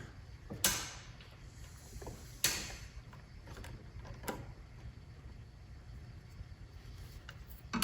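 Quiet handling noises: three short scrapes or knocks about two seconds apart, with a few faint ticks, over a low steady hum.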